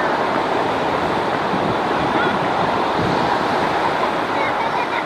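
Ocean surf washing steadily, a continuous rushing noise.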